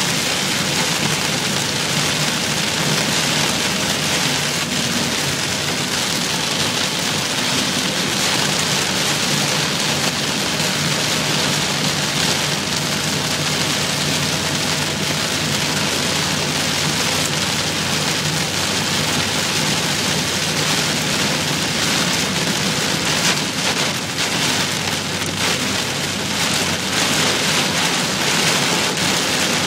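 Heavy rain beating steadily on a car as it drives, with a constant low rumble of road and tyre noise underneath.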